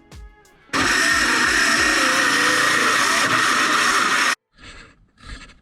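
A power saw cutting through a wooden floorboard, running steadily for about three and a half seconds and stopping abruptly.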